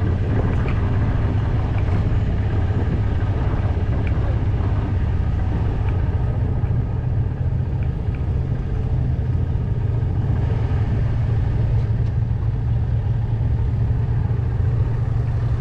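An engine running steadily with a low, even hum that does not rise or fall.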